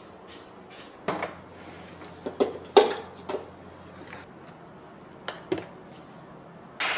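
Kitchenware being handled: a series of light knocks and clinks of dishes and utensils, the loudest a little under three seconds in. Near the end a loud, steady rattling noise starts suddenly.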